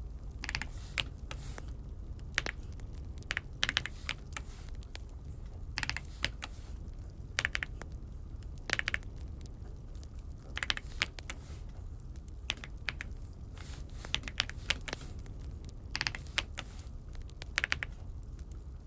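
Typing on an Aula F75 mechanical keyboard: quick runs of key clicks in irregular bursts with short pauses between, over a steady low hum.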